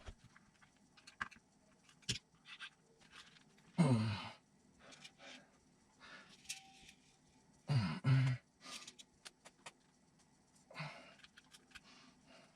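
Scattered light clicks and rattles of small parts being handled and test-fitted, with two brief sighs from the builder, one about four seconds in and one about eight seconds in.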